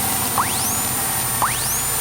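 Steady hiss of the cockpit intercom audio, with a short electronic chirp rising sharply in pitch about once a second and a faint steady high tone.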